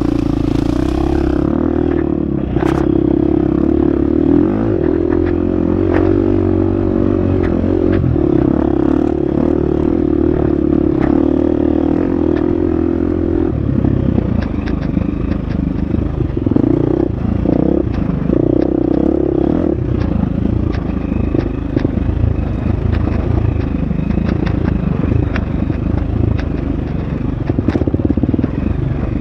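Husqvarna FX 350 dirt bike's four-stroke single-cylinder engine running hard on a trail: the pitch holds steady for roughly the first half, then rises and falls with throttle changes. Scattered sharp clicks and clatter throughout.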